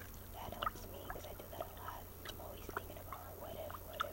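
Gum being chewed, with irregular wet smacks and mouth clicks.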